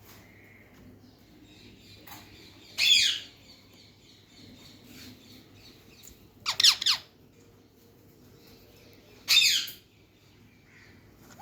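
Parrot giving three short, loud, harsh squawks a few seconds apart, the middle one a quick double call.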